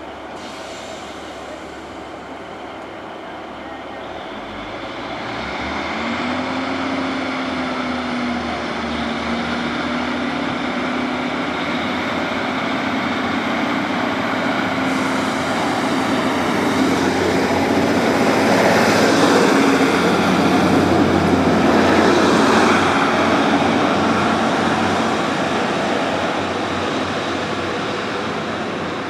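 Class 150 diesel multiple unit running past at the platform: a steady engine note, rising slightly in pitch, joins the rumble of wheels on rail about six seconds in. The train grows louder, is loudest about two-thirds of the way through, then eases off.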